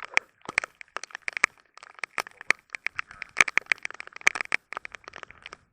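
Heavy rain, with large drops striking close to the microphone as a fast, irregular run of sharp taps.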